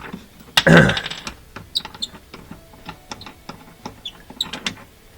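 Small clicks and light metallic clinks of a dishwasher heating element's mounting nuts being spun off and handled by hand. A louder brief rattling scrape comes about a second in.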